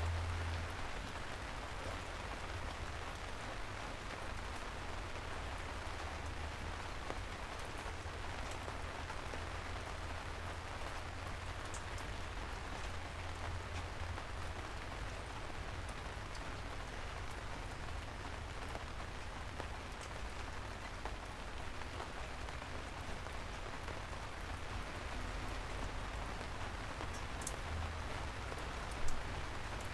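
Steady rain falling, with scattered individual drop ticks over the even hiss and a low rumble underneath. One sharper tap stands out near the end.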